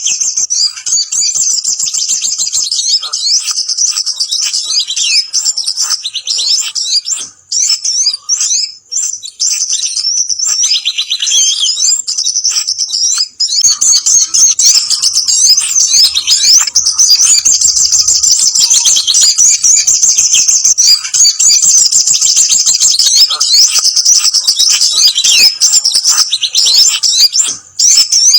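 Bird-lure recording of sogon (sogok ontong, crimson sunbird) calls mixed with kemade calls. It is dense, fast, high-pitched chattering and chirping, nearly unbroken, with a few brief pauses.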